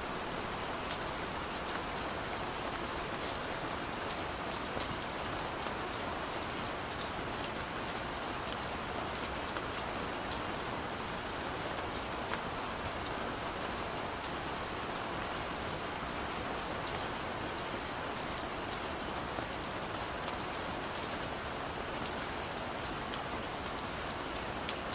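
Steady, gentle rain falling, an even hiss with scattered individual drop ticks.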